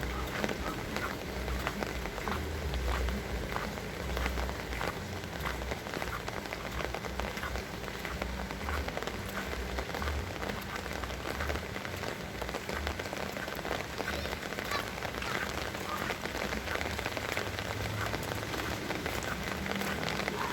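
Heavy rain falling steadily, a dense hiss full of sharp drop hits on nearby surfaces, with a low rumble under it that fades about halfway through.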